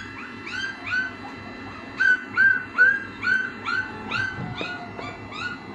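A dog yipping and whimpering in a quick run of short, high cries, about two or three a second. Under it is the steady blowing of a portable hot air desoldering station that has just been switched on and is not yet hot.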